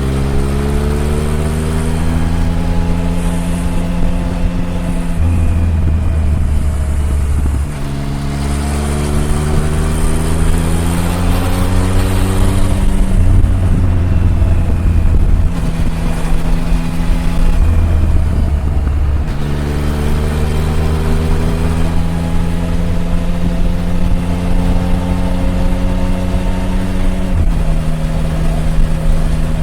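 Triumph Tiger 1050's inline three-cylinder engine under way. Its pitch climbs in several long pulls, each broken off with a drop in pitch between them, and it settles lower near the end.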